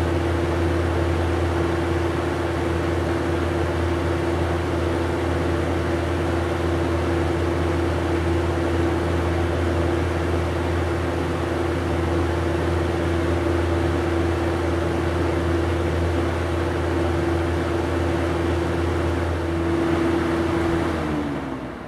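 Lakewood 200/i 20-inch box fan running steadily: motor hum with a steady tone over the rush of air from the blades. Near the end the hum's pitch starts to fall and the sound fades as the fan is switched off and begins to spin down.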